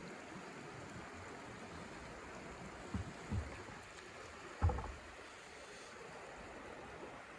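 Steady rushing wind noise, with three soft low thumps about three and four and a half seconds in, the last the loudest.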